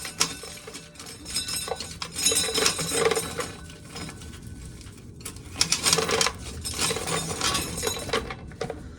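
Dry corn being shelled: hard kernels rattling and clinking as they break off the cobs and fall, in irregular clusters of small clicks.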